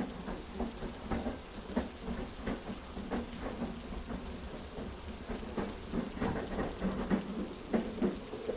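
Heavy rain falling steadily over a low rumble, with irregular knocks about two or three times a second, in a blended rain-and-train sleep soundscape.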